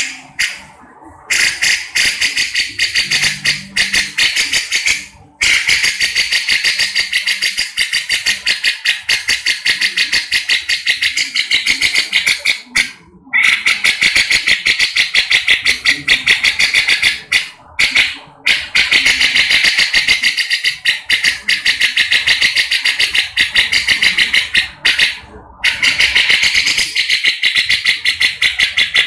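Grey-cheeked bulbul (cucak jenggot) giving a loud, rapid chattering call of fast repeated high notes, broken by a few short pauses.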